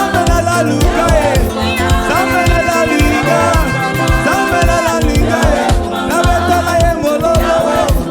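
Live gospel praise-and-worship band music with a steady, regular beat and bass line and a melodic line moving over it.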